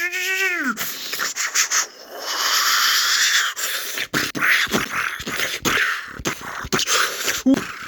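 Sound effects made with a child's mouth: a voiced glide that rises and falls, then a long hissing whoosh. After that come scattered clicks and rubbing as toy cars are handled.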